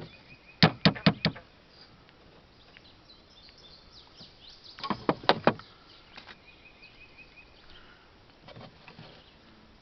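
Quick, sharp knocks in two short clusters, four strokes about a second in and a handful more about five seconds in, with a few fainter ones near the end; birds chirp faintly in between.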